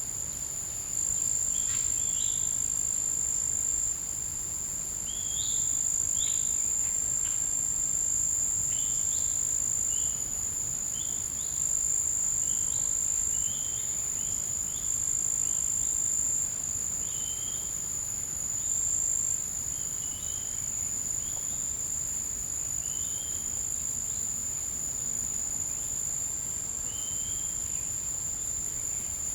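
Insects giving one unbroken high-pitched trill, its loudness stepping up and down every few seconds. Short high chirps come about once a second over it, thinning out in the second half.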